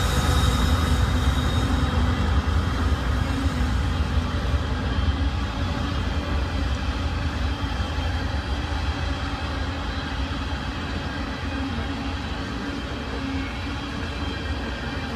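Freight train of coal hopper cars rolling past, a steady rumble of wheels on rail that slowly fades as the train moves away.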